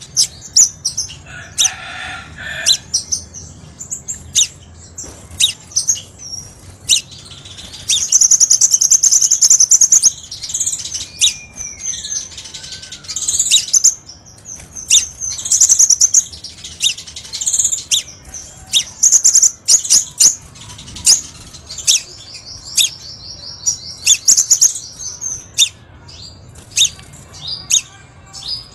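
Crimson sunbird (kolibri sepah raja) song: rapid high-pitched chirps and sharp notes, broken by long buzzy trills near a third of the way in and again near the end.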